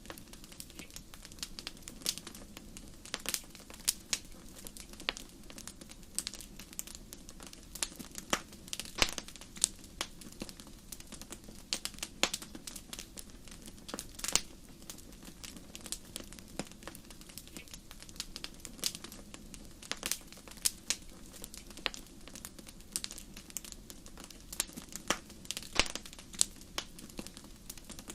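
Wood fire in a fireplace crackling, with irregular sharp snaps and pops over a steady low hiss of flames.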